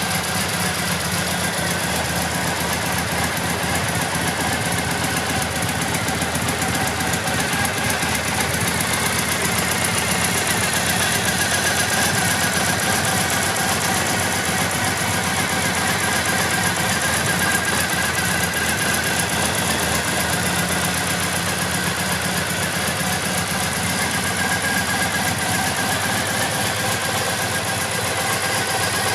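Triumph Bonneville T100's 865 cc air-cooled parallel-twin engine running steadily at idle, a little louder through the middle.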